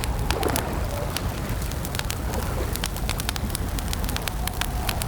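Campfire crackling: irregular sharp pops and snaps over a steady low rumble of the burning wood.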